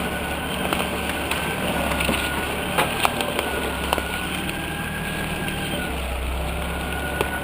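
UAZ off-road vehicle's engine running steadily under way, with a steady high whine over it and a few sharp knocks and cracks about three seconds in and again near the end.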